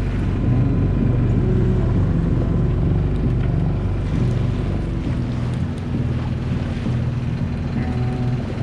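Small sailboat's motor running steadily at low cruising speed, with wind buffeting the microphone.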